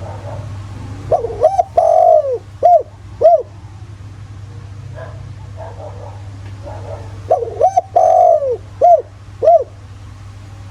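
Spotted dove singing its cooing call twice, about six seconds apart: a few quick notes, a long drawn-out coo, then two short coos. Fainter coos sound between the two calls.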